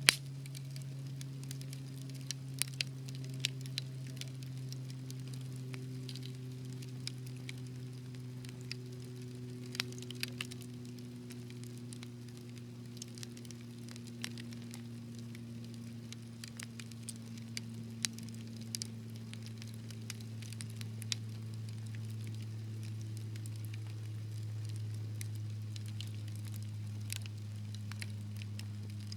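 Wood fire crackling: scattered sharp pops and snaps, the loudest right at the start, over a low steady hum that slowly sinks in pitch.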